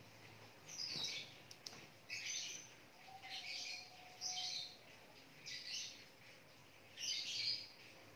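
Birds chirping faintly in short bursts, roughly once a second.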